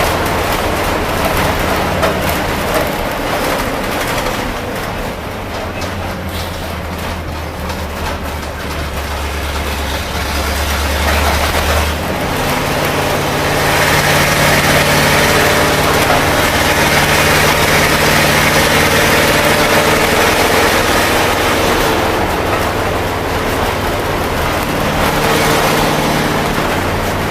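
International Harvester SV304 gasoline V8 of a 1973 Loadstar school bus running under way. About twelve seconds in, the engine note steps up in pitch and grows louder as it pulls. The owner thinks the engine runs a little rich.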